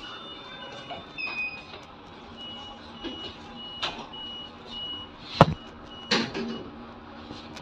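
A high electronic beep repeating about once a second, with a few sharp knocks, the loudest one about five and a half seconds in.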